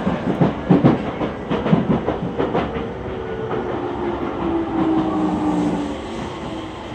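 Running sound inside a JR East E231 series 800 commuter train. The wheels clack over rail joints for the first few seconds. Then a humming tone from the drive slowly falls in pitch as the train slows on its approach to the next station.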